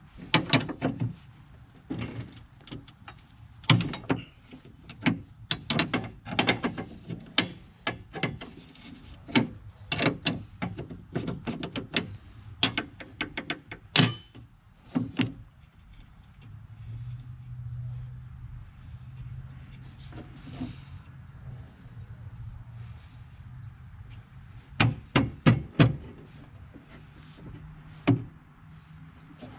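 Hand tools clinking and knocking on the finish mower's metal deck and pulleys as a bolt is worked loose: irregular sharp metallic clicks, dense in the first half, a few more near the end. A faint low steady hum runs through the middle stretch.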